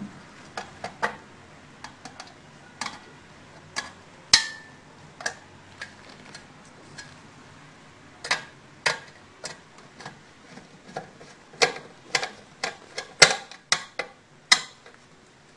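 Irregular sharp clicks and light knocks of small tools and parts being handled while a chocolate fountain's circuit board is swapped, sparse at first and busier in the second half. One knock about four seconds in rings briefly, like metal.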